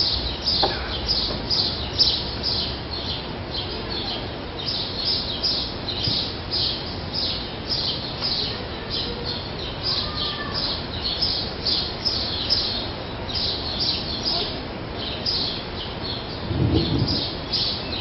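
A small bird chirping over and over, a steady run of short high chirps several times a second, with a short low sound near the end.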